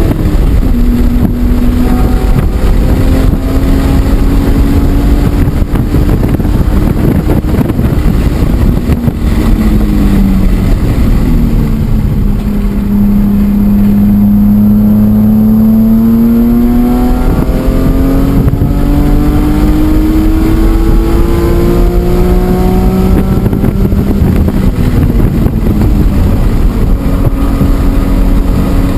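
BMW E46 M3's straight-six engine at racing pace, revving up through the gears with quick shifts. About ten seconds in its pitch drops as if under braking, holds a steady lower note for a few seconds, then climbs again through the gears. Heavy wind and road rush runs under it.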